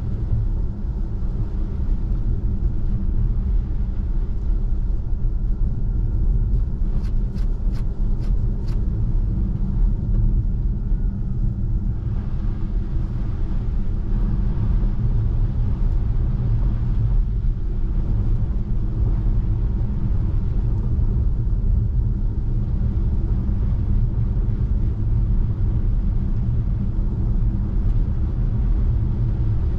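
Steady low rumble of a Tesla Model 3's tyres on a snow-covered road, heard inside the cabin; the car is electric, so there is no engine note. About seven seconds in, five quick clicks sound in an even run.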